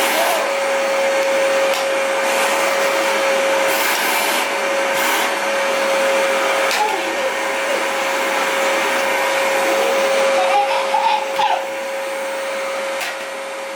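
Vacuum cleaner running steadily, its motor giving a constant whine over a rushing air noise; it drops a little in loudness near the end.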